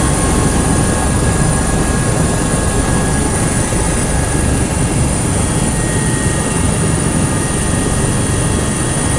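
Helicopter turbine and rotor noise, loud and steady, with a thin high whine over a dense low rumble.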